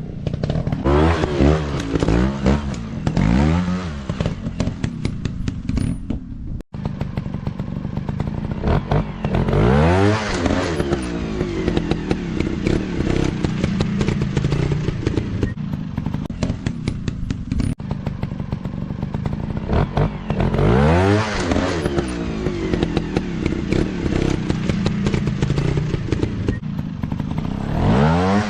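Dirt bike engines running and revving up and down again and again, each rev a rising then falling whine, with steady running in between and a brief cut-out about a quarter of the way through.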